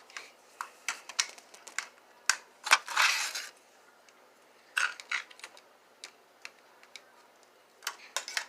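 Plastic Lego pieces clicking and rattling as a model is handled: a series of scattered sharp clicks with a couple of short rustles about three and five seconds in.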